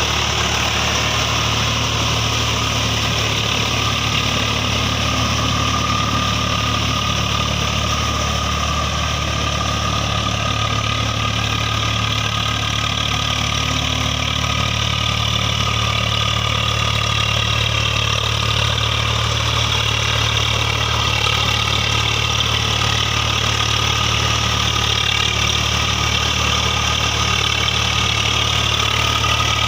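Tractor diesel engine running steadily at an even speed, with no revving or change in loudness.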